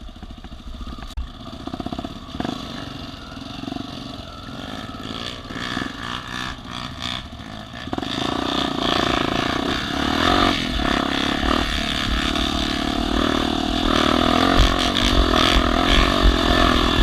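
Off-road vehicle engine running, getting louder about halfway through and revving up and down.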